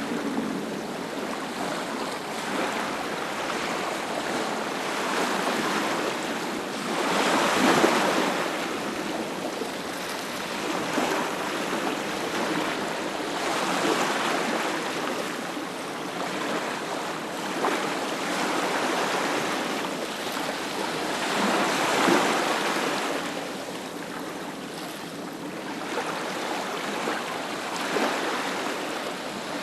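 Ocean surf washing onto a beach: a steady rush of water that swells into a louder breaking wave every several seconds.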